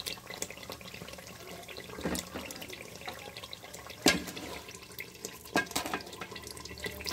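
Onion-tomato masala sizzling and bubbling in oil in a metal pan, with a steady crackle. A few sharp knocks come as paneer cubes are added, the loudest about four seconds in.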